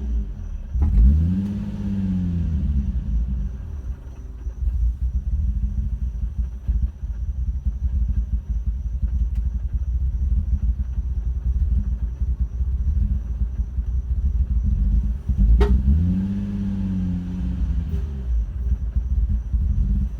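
Nissan 350Z's 3.5-litre V6 running roughly with an uneven, misfiring idle, revved up and back down twice, with a sharp pop as the second rev begins: a backfire out the intake. The misfire was traced to a bad fuel injector and failing coil packs.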